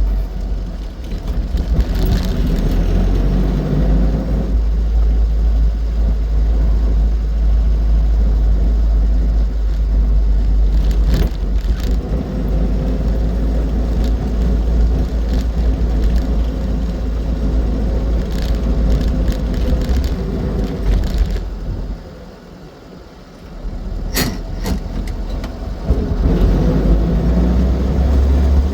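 Austin 7 Ruby on the move, its small four-cylinder side-valve engine and running gear giving a steady low rumble. About two-thirds of the way through the sound falls away briefly, then builds back up. A few sharp clicks or knocks cut through along the way.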